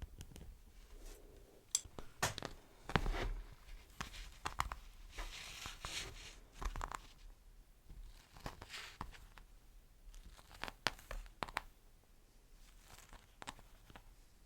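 Beeswax wrap crinkling and peeling stickily under the fingers, in irregular soft crackles and sharp little clicks.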